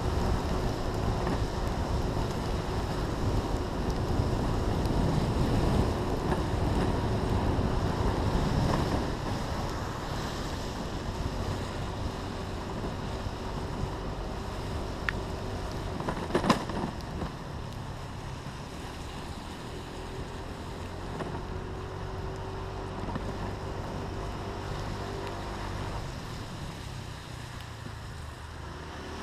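Wind rushing and buffeting the microphone, strongest in the first third, over a steady low motor hum. A single sharp knock about halfway through.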